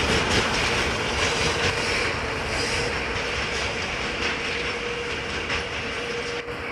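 ChME3 diesel shunting locomotive running past: its diesel engine drones with a steady tone while the wheels click over the rail joints, the sound slowly fading.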